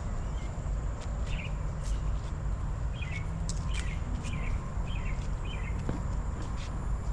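A bird chirping in short, separate notes, about seven of them from one to six seconds in, over a steady low rumble and a faint, steady high-pitched tone.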